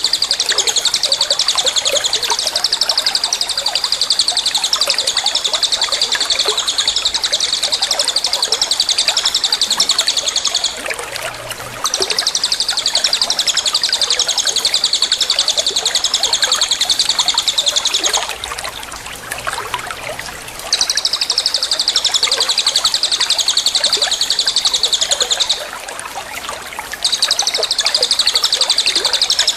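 Songbird singing a high, rapid buzzing trill in long unbroken bouts of about five to eleven seconds, with brief pauses between them.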